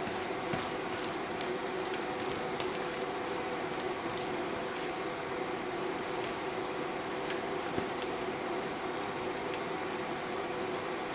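Wet biscuit dough of flour, egg and milk being mixed in a bowl: soft squishing with scattered light clicks, over a steady low hum.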